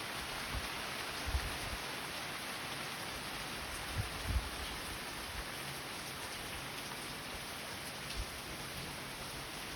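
Steady rain falling, an even hiss, with a few short low thumps about a second in, twice around four seconds and once near eight seconds.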